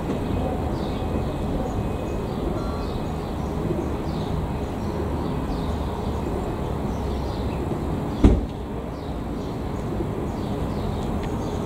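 FS E.652 electric locomotive hauling a freight train, a steady low rumble as it approaches, with a single sharp thump about eight seconds in.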